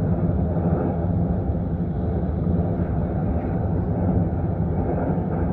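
Airliner noise: a steady low rumble with no breaks.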